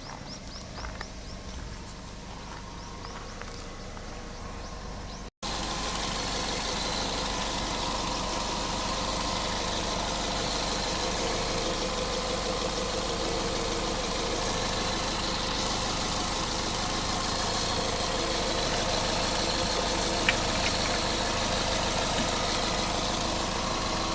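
Toyota MR-S's 1.8-litre four-cylinder engine idling steadily, starting abruptly about five seconds in after a quieter stretch of low background noise.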